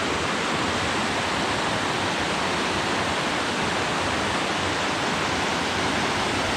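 A mountain waterfall rushing steadily: an even, unbroken water noise.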